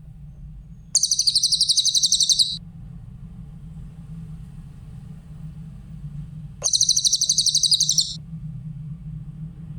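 Cililin bird singing: two bursts of rapid, high-pitched trilled chirps, each about a second and a half long and about five seconds apart, over a steady low hum.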